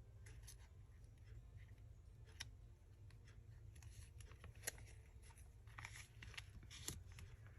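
Near silence with faint paper-crafting handling: soft rustles and light clicks, with two sharper clicks about four and a half and seven seconds in.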